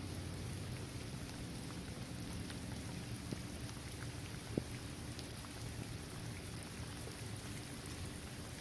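Steady rain falling on a paved basketball court, trees and grass: an even hiss with scattered drops ticking, and a couple of sharper drop hits around the middle.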